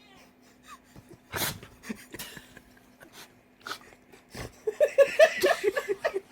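A dog sneezing: a sharp sneeze about a second and a half in, a few more sneezes and huffs through the nose, then a quick run of short pitched snuffles in the second half.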